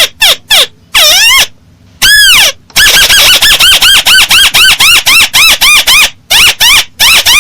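Crake (burung tikusan sawah) calling loudly. A few short arched notes and one longer drawn-out note give way, about three seconds in, to a fast, even series of about four arched notes a second, with a brief break near the end.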